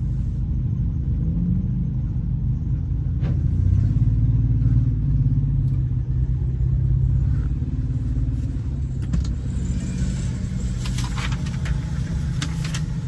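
Car engine and road rumble at low speed, swelling a little about four seconds in, with a few sharp clicks near the end.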